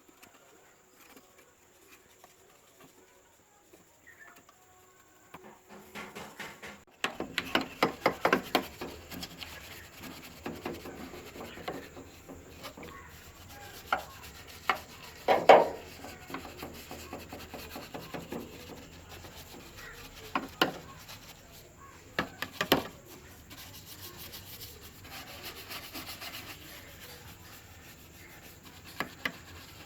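Rubbing and scraping with clicks and knocks, as of parts being worked by hand. A quick run of scraping strokes starts about seven seconds in, after a few nearly quiet seconds, and is followed by scattered louder knocks and scrapes.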